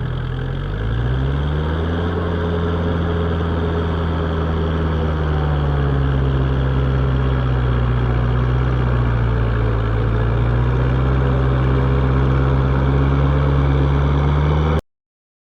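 Tractor engine running steadily; its pitch rises about a second in and then holds with slight dips. The sound cuts off abruptly near the end.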